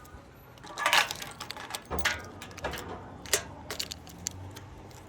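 Irregular clicks and light metallic clinks of small objects being handled, with louder rustling bursts about one second and two seconds in.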